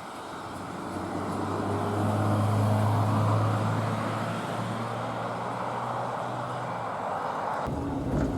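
A vehicle passing by: a steady engine hum with road-like noise swells to its loudest two to three seconds in, then eases off. Near the end the sound changes abruptly to a different, rattling noise.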